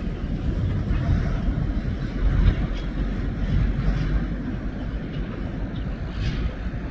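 Freight train rolling past with a steady low rumble, wind buffeting the microphone.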